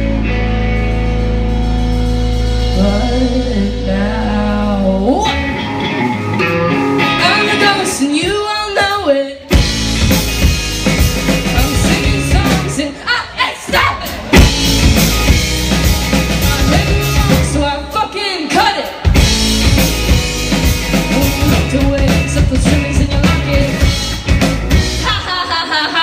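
Live rock band with a woman singing. A held chord over heavy bass rings under the vocal at first, then after a short break about nine seconds in, drums and the full band come in.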